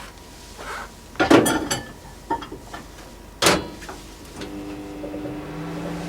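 A few short scraping strokes, then a small motor starts about four and a half seconds in and runs with a steady hum.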